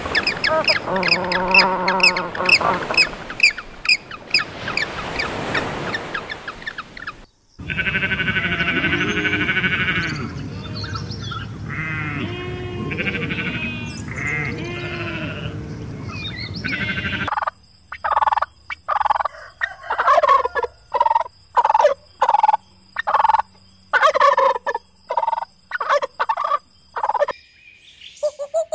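A string of animal calls: African penguins braying in repeated pitched calls, then after a brief gap sheep bleating, then a long run of short repeated calls at about two a second.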